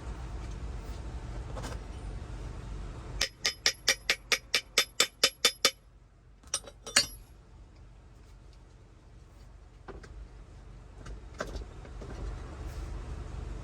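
A run of about a dozen sharp metallic clicks, about four a second, followed by two more; a low steady hum stops just before the clicks and comes back near the end.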